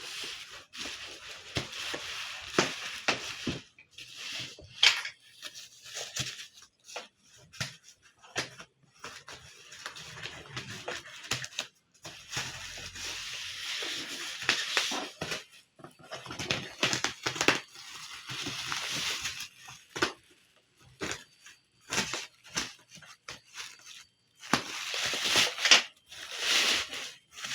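Packaging being handled and opened: irregular rustling, crinkling and tearing of box and wrapping, with sharp clicks and scrapes between short pauses.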